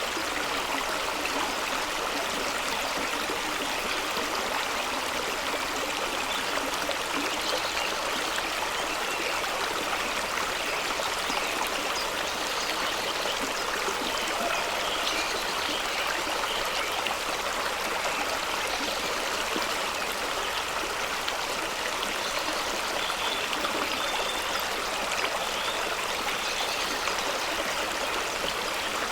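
Fast-running stream and small waterfall rushing and splashing over rocks, a steady even wash of water noise.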